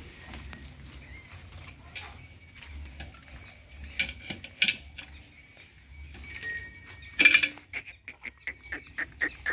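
Murrah buffaloes moving about, with scattered metallic clinks and knocks. A louder sound comes about seven seconds in, followed near the end by a run of quick clicks, about three a second.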